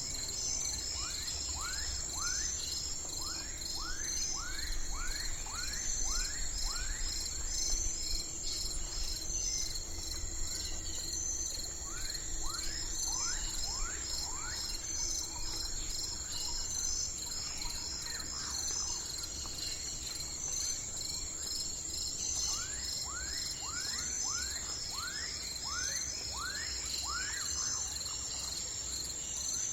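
Steady chorus of insects trilling with a high, rhythmic pulsing, and a bird singing runs of quick descending notes, about two a second, in three bursts.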